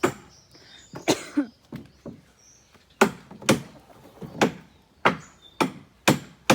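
Hammer blows, struck one after another about twice a second with a short pause about two seconds in, each a sharp knock with a brief ring.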